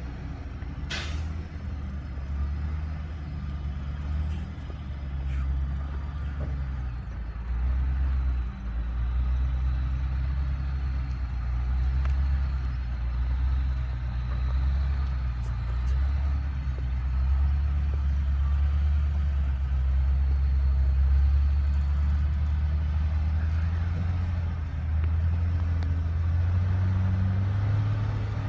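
Old GMC logging truck's engine running steadily with a deep, low drone, a short sharp hiss about a second in, and the engine note rising near the end.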